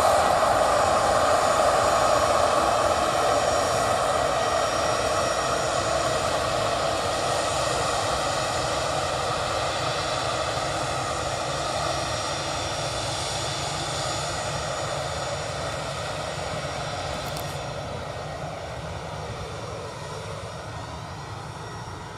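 The twin jet engines of an Airbus A319 running, the sound fading steadily as the aircraft moves away.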